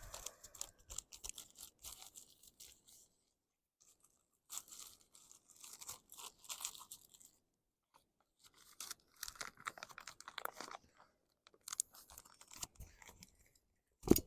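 Plastic packaging rustling and crinkling in four bursts of a second or two each, as food bags are handled and rummaged through, with a sharp click near the end.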